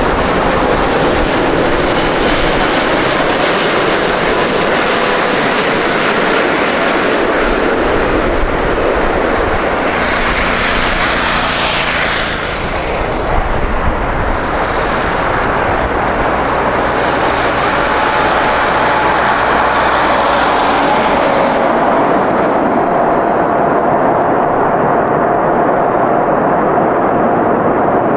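Emirates Airbus A380-800 jet engines, loud and steady, as the airliner comes in to land. A whine falls in pitch near the middle as it passes, and a steady high engine tone carries on through the second half.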